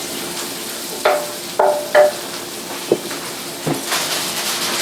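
Chopped garlic and sliced mushrooms sizzling in butter and olive oil in a hot sauté pan, stirred with a utensil that scrapes and clinks against the pan a few times.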